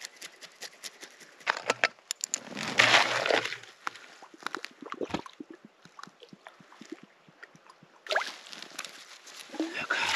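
Knife scraping and handling sounds as a grayling is cleaned by hand: a run of short scrapes and clicks with louder noisy stretches, and some sloshing of water.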